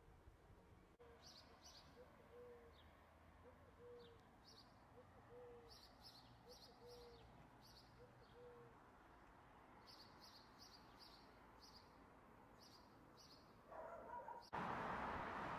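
Faint birdsong over quiet street ambience: many short high chirps and a row of short low calls repeating every second or so. About a second before the end a much louder steady rushing noise cuts in.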